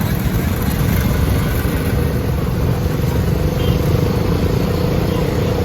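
Motorcycle on the move, its engine running as a steady low rumble, with a faint steady tone joining about two seconds in.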